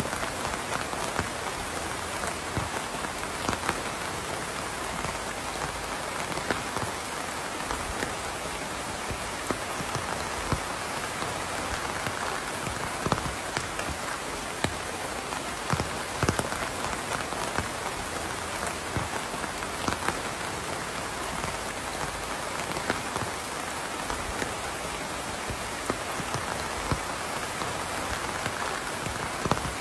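Steady rain falling, an even hiss with individual drops ticking and pattering sharply on a hard surface every second or so.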